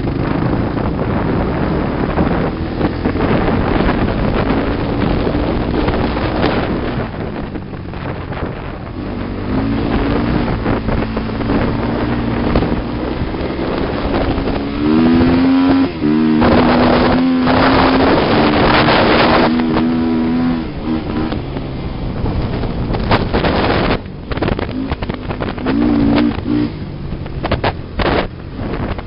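Off-road sand vehicle engine running and revving up and down, with strong wind buffeting the microphone.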